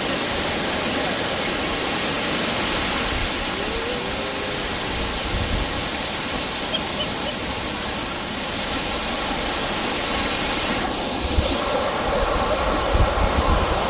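Waterfall: a steady rush of falling water, with some low buffeting on the microphone in the last few seconds.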